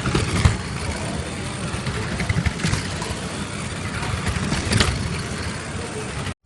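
A car engine runs with a steady low rumble, with faint voices in the background. It cuts off abruptly just before the end.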